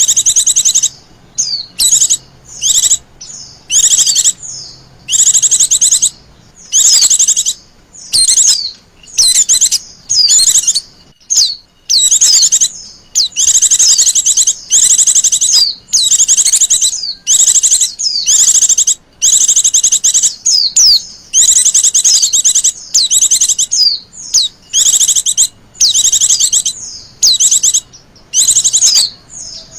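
White-eye (Zosterops) calls, presented as a female's call used as a lure to set males singing: high-pitched bursts of rapid chirping trills mixed with quick sliding notes, each burst up to about a second and a half long, repeated with short gaps.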